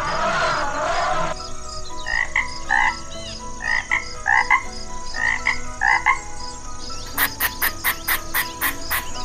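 The tail of an elephant call fades out in the first second or so. Then a frog calls in short croaks, in quick pairs and threes, for about five seconds. Near the end comes a squirrel's rapid clicking chatter, about five clicks a second.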